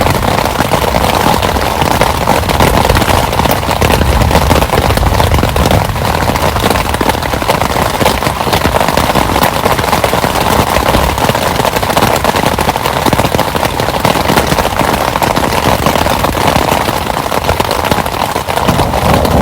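Heavy rain falling steadily, a dense crackle of countless drops striking close by.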